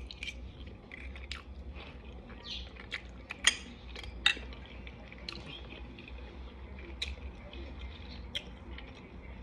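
Person chewing stuffed shell pasta, with scattered short, sharp clicks over a steady low hum.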